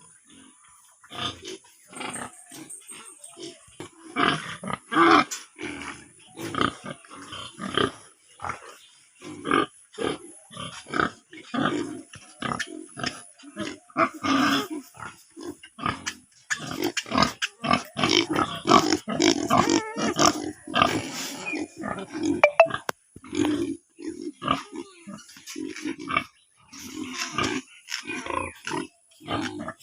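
Pigs grunting, a steady run of many short calls one after another. The calls come thickest and loudest from a little past halfway to about three-quarters through.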